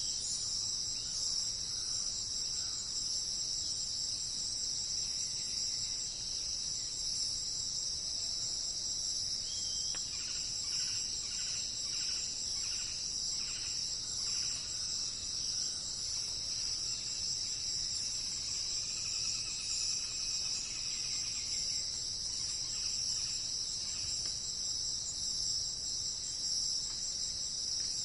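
Steady, high-pitched insect chorus, like crickets, running without a break. Faint bird calls come over it: a run of short notes about two a second around a third of the way in, and another call about two-thirds through.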